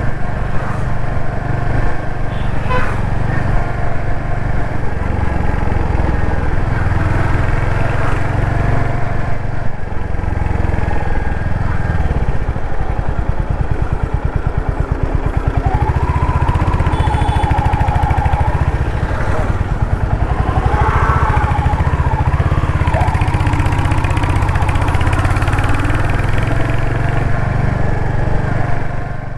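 Royal Enfield Hunter 350's single-cylinder engine running while riding in city traffic, a steady low thump that settles into an even pulse for a few seconds midway. Wavering higher tones from other traffic come in around the middle, and the sound cuts off abruptly at the end.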